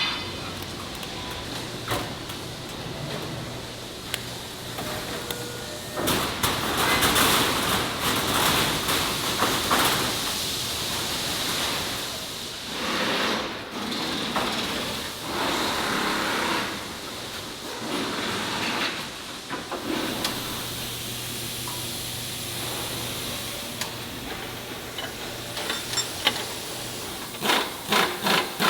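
Factory work noise at a precast concrete plant: a low machine hum, swells of hissing and scattered sharp clanks, with a quick run of clanks near the end.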